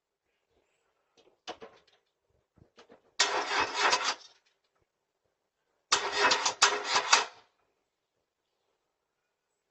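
Car engine cranking on the starter in two attempts, each a second or so long, without catching: the car won't start. Small clicks come just before.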